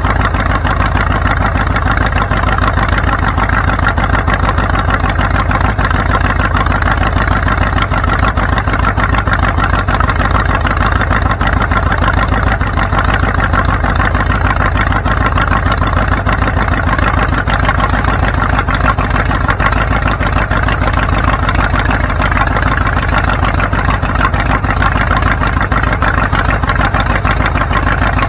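Vehicle engine and road noise running steadily, with a constant low rumble and no change in pace.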